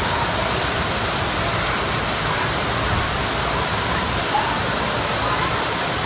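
Steady rain pouring down onto city rooftops, an even, unbroken hiss.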